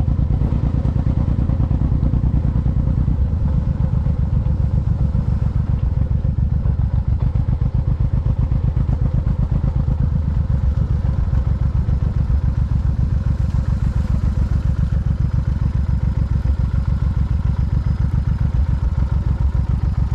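Motorcycle engine running steadily with a rapid, even pulse that does not rise or fall.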